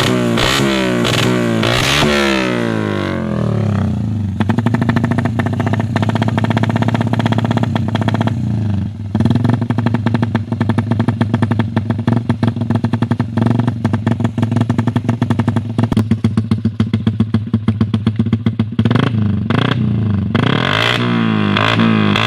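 Yamaha Jupiter MX single-cylinder four-stroke engine running through a Pro Liner aftermarket exhaust. It is blipped up and down at first, settles into a steady run with a fast exhaust beat, then is revved again near the end.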